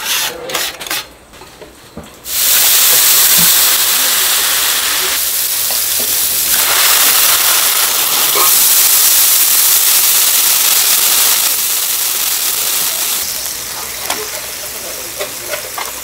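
For about two seconds, utensils clatter and scrape in a pan. Then, suddenly, a loud steady sizzling hiss of food frying on a hot pan starts, easing off somewhat near the end.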